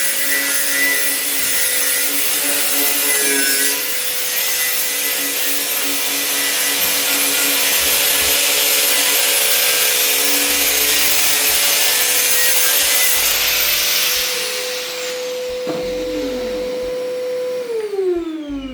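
Handheld electric power tool running with a steady high whine while its abrasive head grinds against the cast iron pot lid, giving a loud rasping noise. The grinding eases a few seconds before the end, then the tool is switched off and its whine falls in pitch as the motor spins down.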